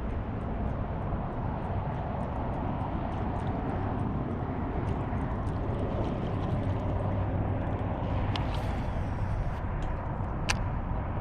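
Steady outdoor rumble and hiss, with faint scattered ticks and one sharp click about ten and a half seconds in.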